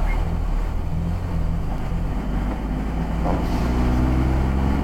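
Volkswagen Gol engine running steadily with road noise, heard from inside the moving car; the engine note grows stronger over the last couple of seconds.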